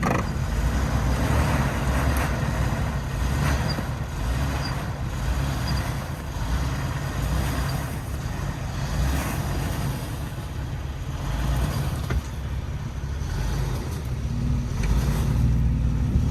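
Off-road Jeep engine running steadily at low revs, its note rising slightly near the end.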